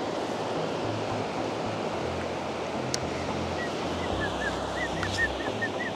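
Steady wash of sea surf and wind, with faint short high chirps in the second half.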